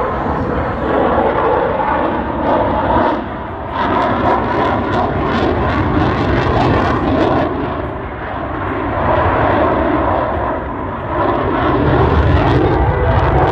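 Loud engine noise from a fixed-wing military display aircraft flying past. It swells and eases several times, with a ragged crackle from about four to seven seconds in.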